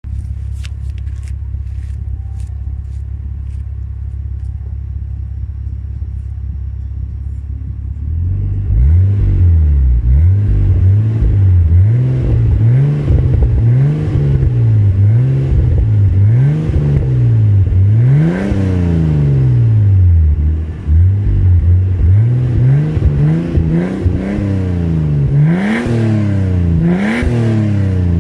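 Nissan Skyline ER34's RB25DET Neo turbocharged straight-six, breathing through an Apexi N1 90 mm exhaust with an 80 mm downpipe and the factory catalytic converter, idles steadily. About eight seconds in, it is revved again and again, the pitch rising and falling with each rev, and the revs come quicker near the end.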